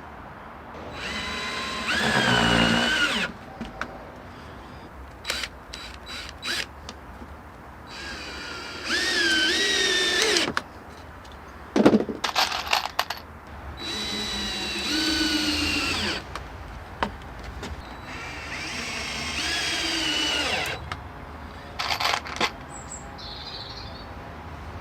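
Power drill run in four short bursts, its motor whine dipping in pitch under load and picking up again, as when driving screws into the decking boards. Sharp wooden knocks and clatter come between the bursts, the loudest a little before halfway.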